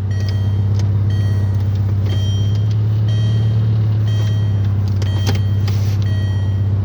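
1998 Volkswagen Beetle's engine idling steadily after a cold start, with a faint high beep repeating about every three-quarters of a second.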